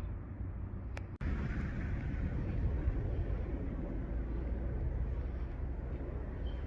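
Steady low outdoor rumble with a short click about a second in and a brief dropout just after.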